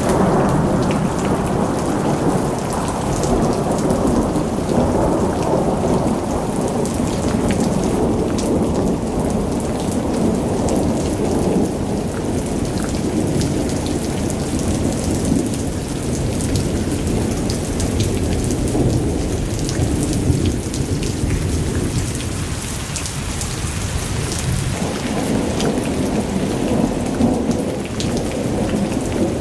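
Heavy rain pouring steadily: a dense, loud rush with scattered sharp drop hits over it.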